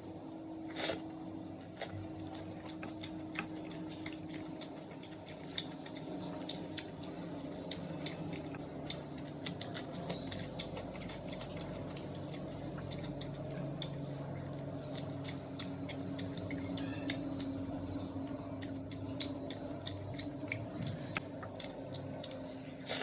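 Close-miked eating sounds: many small irregular clicks and squishes of chewing and of food being handled at a plate, over a steady low hum.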